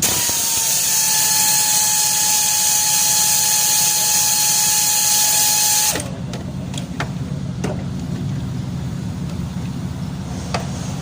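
Power tool spinning at a steady high whine with a hissy edge for about six seconds, its pitch dropping slightly just after it starts, then cutting off suddenly; a few sharp clicks follow, typical of loosening fasteners while stripping the front of an engine.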